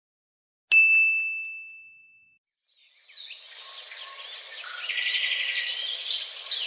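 A single bright ding sound effect about a second in, one clear high tone ringing and fading away over about a second and a half. From about three seconds in, a chorus of birds chirping fades in and carries on.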